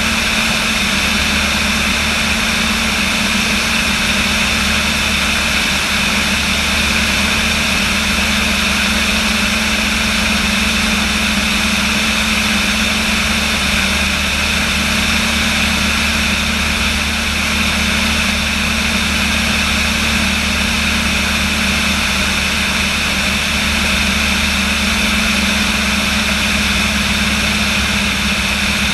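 Aircraft engine running with a steady drone, unchanging in pitch and loudness.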